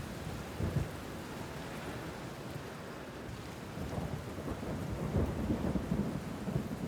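Steady rain with low rumbles of thunder, growing louder and heavier from about halfway through.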